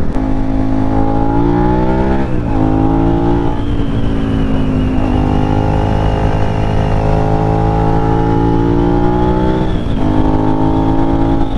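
On-board sound of a Suzuki SV650's V-twin engine under way: the revs climb, fall sharply about two seconds in as it shifts up, rise again and hold steady, then dip once more near the end. Steady wind rush on the microphone underneath.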